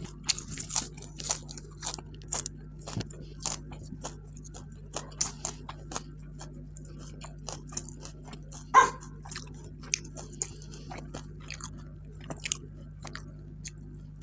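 A person chewing and biting into food close to the microphone, with irregular crisp crunches, as of raw vegetables eaten with a spicy pork salad. A steady low hum lies underneath, and there is one louder short sound about nine seconds in.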